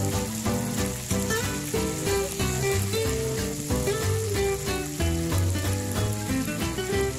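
Whole frogs deep-frying in a pan of hot oil, sizzling steadily, under background music with a melody of changing notes and a regular beat.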